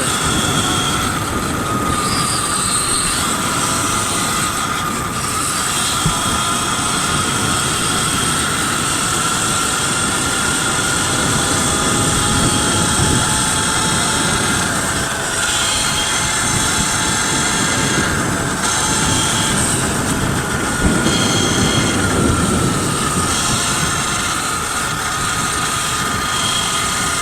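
Electric bike motors whining steadily over wind and tyre rush while riding. The whine's pitch drifts slowly up and down with speed.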